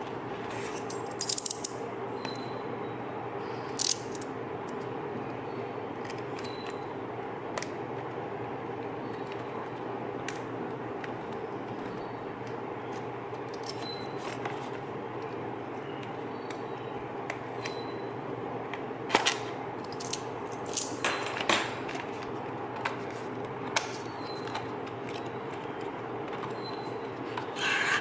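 Packaging being handled during an unboxing: scattered small clicks and short rustles of plastic and cardboard over a steady background hum, with louder handling noises about a second in, around the middle and near the end.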